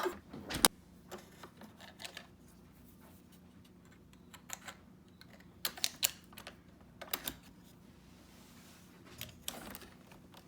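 Scattered sharp clicks and knocks of small hard parts being handled. The loudest comes early, and there are clusters of two to four quick clicks around the middle and near the end.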